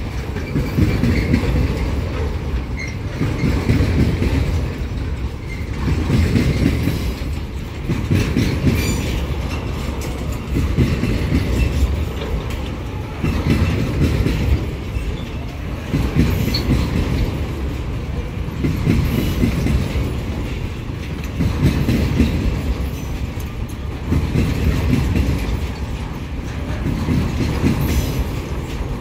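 Empty freight wagons of a pulp train rolling past at speed: a steady rumble and clatter of steel wheels on the rails, swelling and easing about every two and a half seconds.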